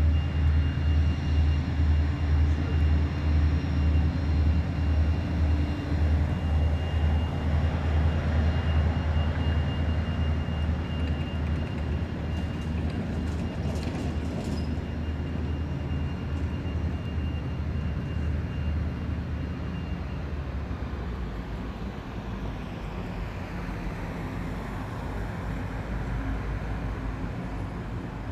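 Towboat's diesel engines running under power, a steady low rhythmic throb with a thin high whine over it, fading after about twenty seconds as the boat moves off.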